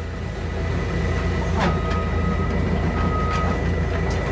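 Heavy truck's diesel engine running with a steady low hum. A thin high tone sounds twice, briefly, about halfway through.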